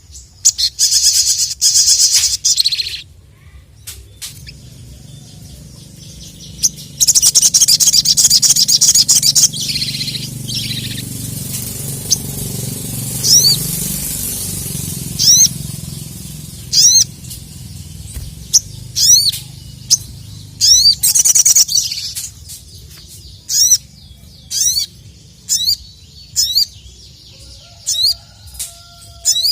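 Crimson sunbird (sogok ontong, 'sogon') singing: two loud bursts of rapid high trilling, then a string of short, quickly rising chirps about one a second.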